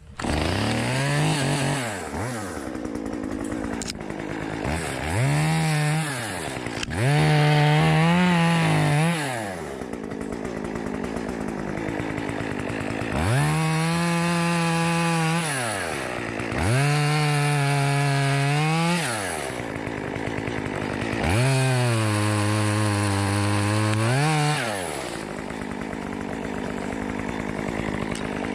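Chainsaw cutting up a fallen tree: the engine revs up to full speed and holds there for one to three seconds at a time, then drops back toward idle, about six times over.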